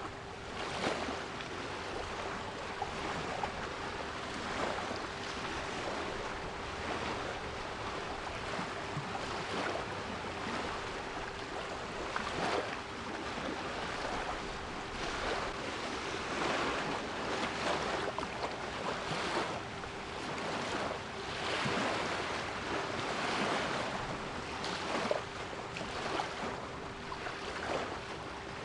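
Sea waves washing in, a continuous rush with repeated surges every second or two, mixed with a steady 396 Hz pure tone held throughout.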